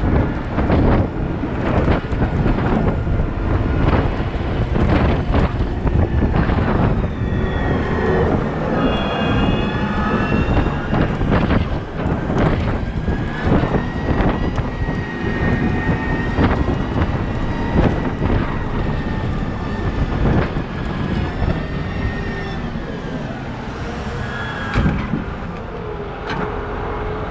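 Heavy machinery working: diesel engines running with repeated clanks and knocks through the first several seconds, then high whines that rise and fall in pitch through the middle.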